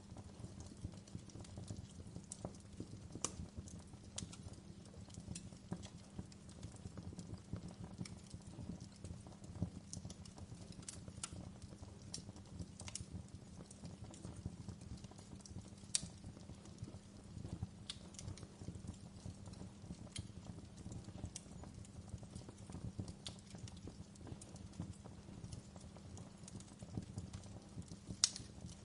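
Quiet crackling fireplace: irregular sharp pops and snaps of burning wood over a steady low rumble of the fire.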